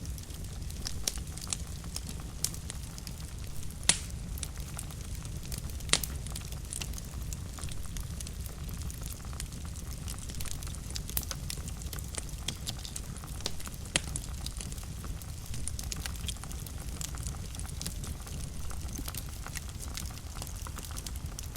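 Wood fire burning in a fireplace with a low steady rumble and frequent small crackles, with two louder pops about four and six seconds in.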